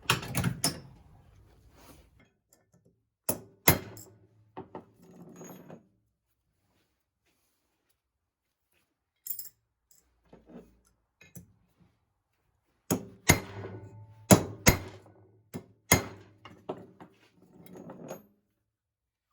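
Hammer taps driving a new replacement part into its seat in a Harley flathead engine. Sharp knocks come in pairs with lighter taps between, a pause in the middle, then a quick run of knocks until the part sits flush.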